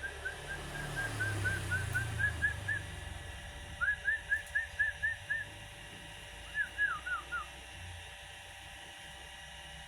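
A caged songbird whistling runs of short, clear notes in quick succession: a long even run, a shorter louder one, then a brief run that falls in pitch.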